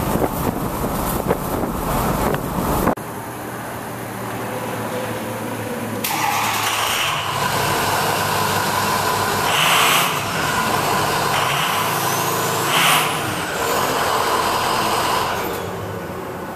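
A 2006 Ford F250's 6.0 Powerstroke turbo-diesel V8 running through its stock exhaust, with the catalytic converter and muffler still in place. For the first three seconds wind buffets the microphone. After an abrupt cut the engine runs steadily and is revved briefly twice in the second half.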